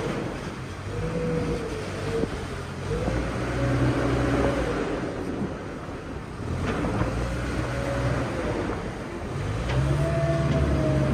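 Engine of farm machinery running, its pitch rising and falling in four slow swells as it is revved up and eased off.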